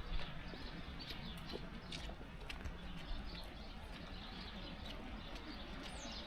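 Faint outdoor background with scattered light ticks and a few short, high bird chirps, one falling in pitch near the end.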